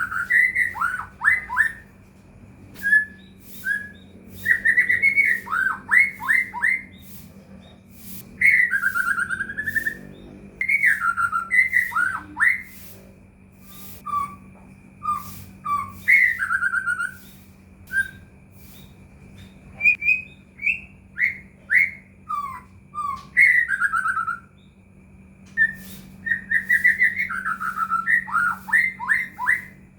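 White-rumped shama (murai batu) singing: bursts of loud, clear whistled phrases with slurred, falling notes, broken by short pauses. A faint steady low hum runs underneath.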